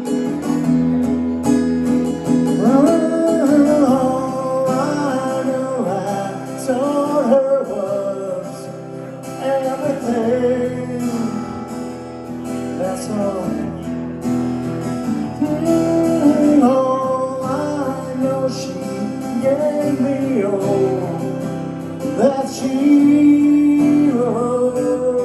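Two acoustic guitars playing a slow rock ballad live, chords ringing under a wavering, bending melody line.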